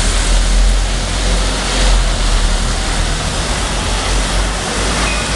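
Scania Citywide city bus driving off, heard as a steady rushing noise with a deep rumble.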